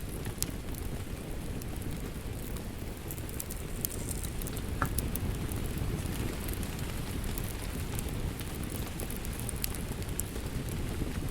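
Steady rain mixed with a crackling wood fire: a low, even rushing under scattered sharp crackles and pops, one louder pop about five seconds in.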